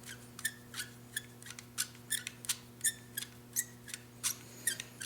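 Light, sharp clicks, about three a second, of a small tool working as the bottom jet is screwed into a Briggs & Stratton 8 hp carburetor.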